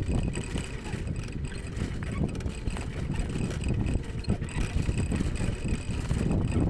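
Bicycle riding over a rough dirt road: a continuous, jittery rumble from the tyres and frame, with wind on the microphone.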